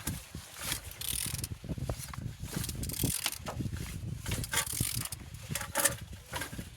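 Mercedes-Benz M111 four-cylinder engine being turned over by hand with a wrench or ratchet, giving irregular mechanical clicks and scraping strokes. It turns freely, a sign the engine is not seized.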